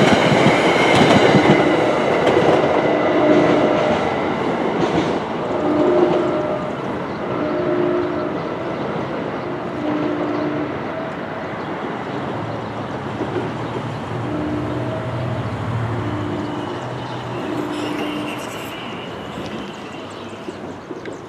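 NJ Transit commuter train's last coaches clattering past over the rails, then the train rolling away and fading. As it recedes, a string of short, low tones sounds about every two seconds.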